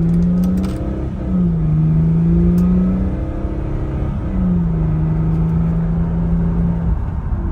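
A 2006 Mercedes-Benz SLK350's 3.5-litre V6 pulling under acceleration. The engine note rises, drops at an upshift about a second in, rises again and drops at a second upshift about four seconds in, then holds steady. The shifts are smooth.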